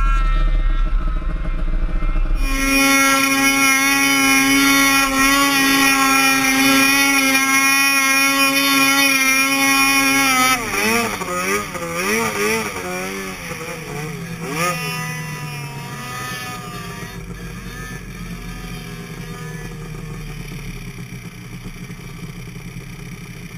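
Snowmobile engine running at high, steady revs, then swinging up and down in pitch for a few seconds as the throttle is worked about ten seconds in, before settling into a lower, fainter drone that fades.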